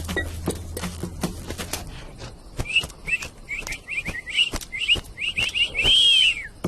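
Cartoon sound effects: scattered clicks and taps, then a run of short, quick, high bird-like chirps in little groups, ending in one longer whistle that rises and falls.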